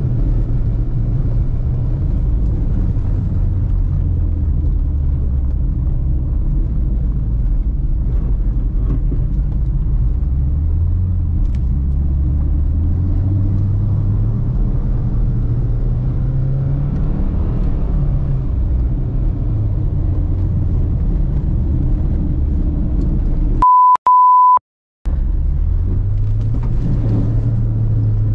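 Subaru Forester SJG's turbocharged flat-four engine and tyre rumble as the car drives the ice stage, the engine note rising and falling with the throttle. About three-quarters of the way in, the car sound cuts out for a censor bleep: two short beeps of one steady pitch.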